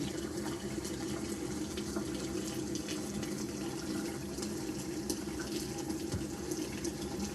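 Steady rush of water running from a tap, with a few faint clicks and knocks over it.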